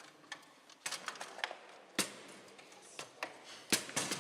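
Foosball play on a Bonzini table: irregular sharp knocks and clicks of the ball being struck by the figures and hitting the table, with the loudest strikes about two seconds in and near the end.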